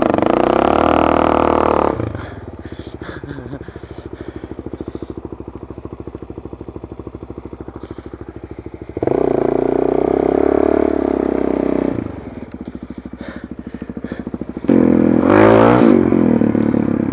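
Motorcycle with an aftermarket exhaust running under hard throttle in three loud bursts: one at the start, one about nine seconds in and a shorter one near the end, running quieter between them.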